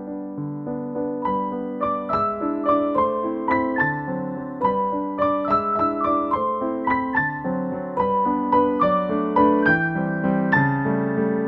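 Background piano music: a gentle melody of struck notes, entering about a second in over held low chords.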